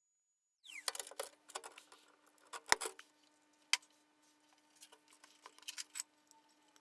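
A series of sharp clicks and light taps, the loudest about three seconds in, over a faint steady hum.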